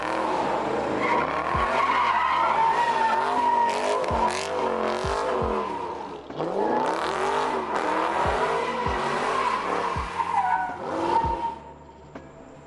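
Car drifting: tyres squealing steadily while the engine revs rise and fall over and over, easing off briefly about halfway and dying away near the end.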